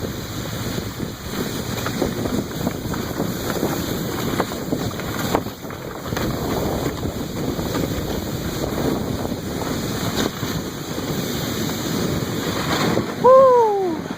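Wind buffeting the microphone over a steady rushing rumble of a sled being towed fast across snow. About a second before the end, a person gives one short shout that falls in pitch.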